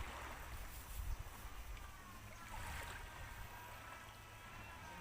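Outdoor waterside ambience: water moving and an uneven low rumble of wind on the microphone. A faint, drawn-out high sound comes in about halfway through.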